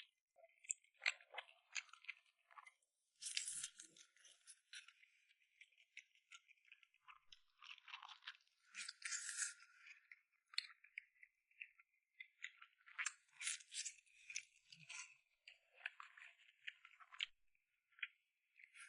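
Close-miked eating sounds: crunching and chewing in irregular bouts, with small clicks, separated by short pauses.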